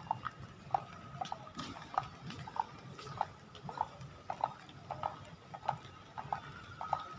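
Footsteps on a hard terminal floor, about two crisp clacks a second at an even walking pace, over a faint steady tone and low hum from the hall.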